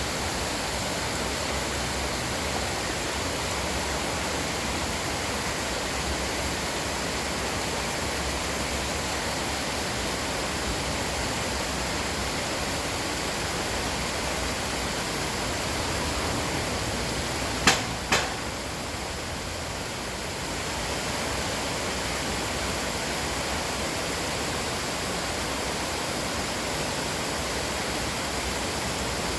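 Stream water rushing steadily, a constant even hiss, with two sharp clicks about half a second apart partway through.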